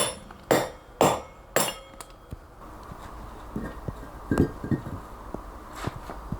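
Hammer striking a chisel into stone: four sharp, ringing metal blows about half a second apart, then the hammering stops and only a few light knocks and clinks follow.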